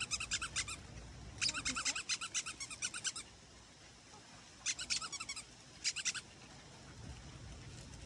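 A bird calling in four bouts of fast, repeated high-pitched chattering notes, the longest lasting about two seconds.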